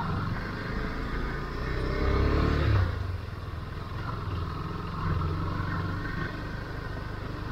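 Motorcycle engine running while riding, revving up with rising pitch about two seconds in and easing off near three seconds, then pulling steadily again.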